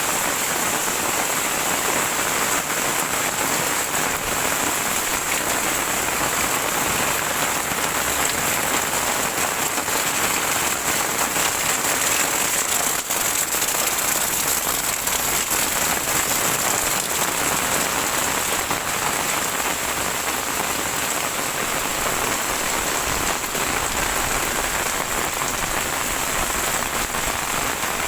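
Heavy rain falling steadily, a dense even hiss with scattered drops striking surfaces.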